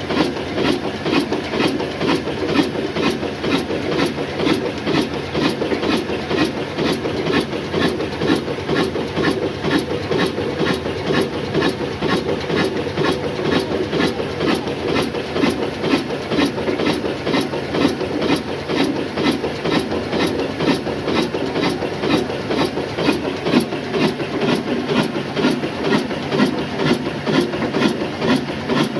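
Old Ruston Hornsby diesel oil engine running steadily under load, driving a flour mill, with an even beat of about two and a half strokes a second.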